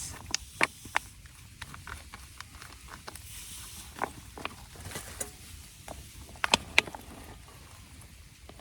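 Scattered light clicks and taps, with a sharper cluster about six and a half seconds in, over a low steady rumble.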